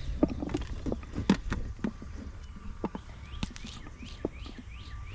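Tire plug repair work: scattered clicks and knocks of tools and parts being handled. A little past the middle comes a quick run of about six short squeaks, each falling in pitch.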